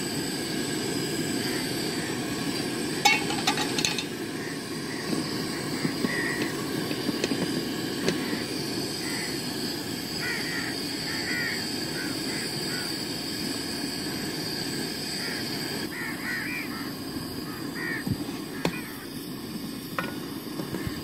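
Birds calling now and then, mostly from about six seconds in, over a steady low rumble of background noise. A short clatter about three seconds in is the loudest moment.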